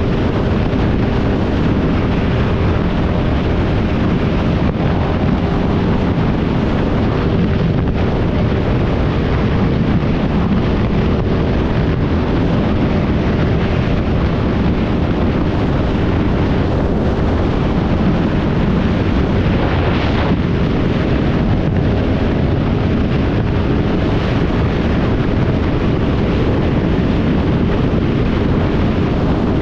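Motorcycle riding along, its engine running steadily under heavy wind rush on the microphone.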